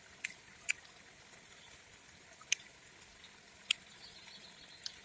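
A person chewing grilled meat: about five short, sharp mouth clicks and smacks at irregular intervals over a quiet background.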